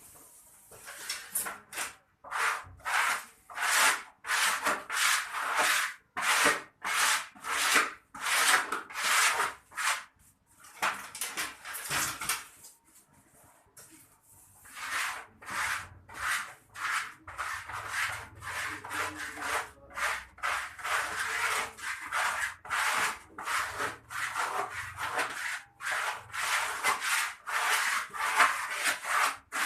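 Repeated rasping, scraping strokes, about two a second, breaking off for a few seconds midway and then carrying on.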